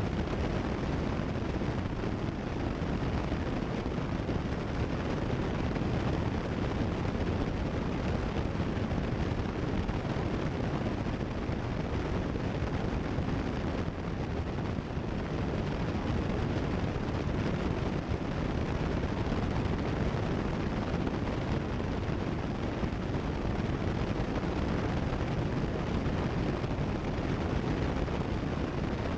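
Steady cabin noise of a Cessna 172 Skyhawk in cruise, its engine and airflow heard through the headset audio.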